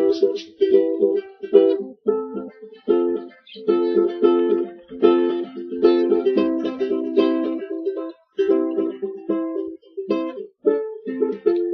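Ukulele strummed in rhythmic chords, with a couple of brief pauses partway through.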